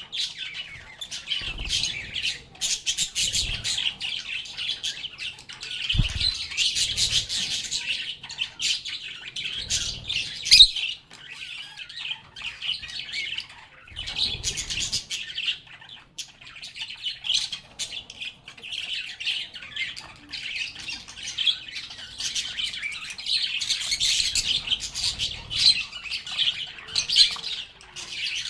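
Pet lovebirds chattering with continuous high-pitched chirps and squawks, broken by a few short low thumps.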